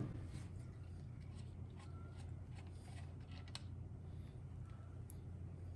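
Quiet room with a steady low hum and a few faint, light clicks of small metal engine parts being handled, as the timing chain tensioner spring goes back in.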